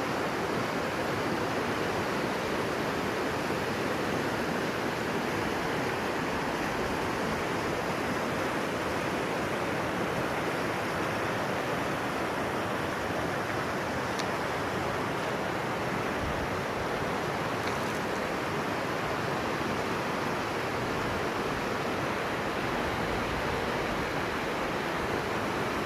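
Mountain river rushing steadily, a continuous roar of water.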